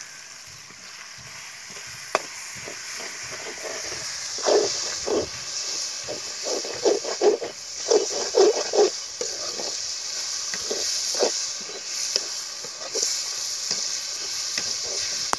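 Chopped onions, tomatoes and green chillies sizzling in hot oil in a kadai, with a metal perforated ladle scraping and knocking against the pan as it stirs, the strokes coming thickest in the middle.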